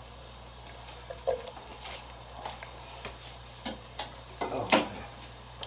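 Chunks of onion frying in oil in a saucepan, crackling and ticking irregularly, with a few sharper pops of spitting oil in the second half.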